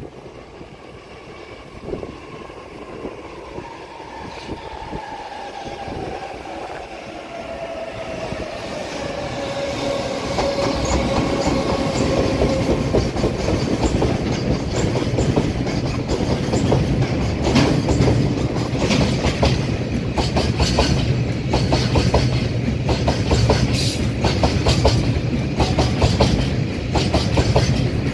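EF210 electric freight locomotive and a long string of Taki oil tank wagons passing through the station, wheels clattering rhythmically over the rail joints. A whine slides down in pitch over the first ten seconds or so as the train comes in, then the joint clatter and rumble grow loud and carry on steadily as the tank wagons go by.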